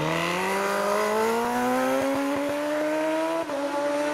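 Racing superbike engine accelerating hard under full throttle, its pitch climbing steadily through one gear. The pitch drops suddenly at an upshift about three and a half seconds in, then holds and starts to build again.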